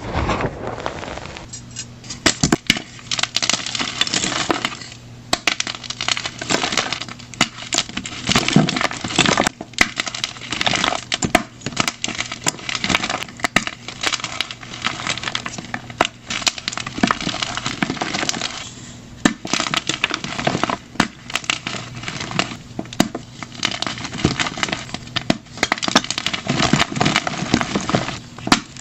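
Plain gym chalk blocks crushed in the hand, giving dense crunching and crackling. It comes in repeated squeezes a few seconds long, with short pauses between them.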